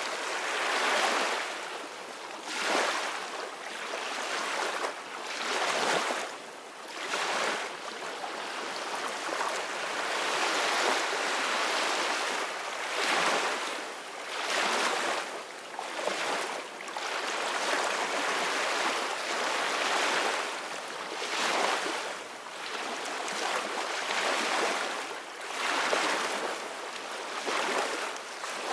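Ocean waves breaking and washing in, a steady surf that swells and eases every second or two, with little deep rumble.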